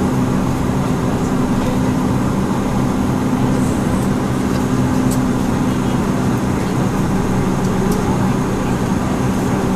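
Bombardier Q400's turboprop engines running steadily, heard from inside the passenger cabin: a steady propeller drone made of several low hum tones over even engine noise.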